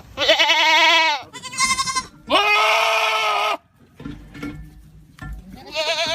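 Goats screaming: a run of loud, shrill, quavering cries, one after another, the third held long and steady, then a short lull of fainter noise before another cry starts near the end.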